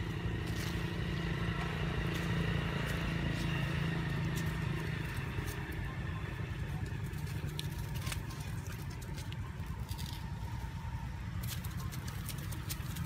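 A motor vehicle's engine running, strongest in the first few seconds and then fading away, with scattered light clicks over it.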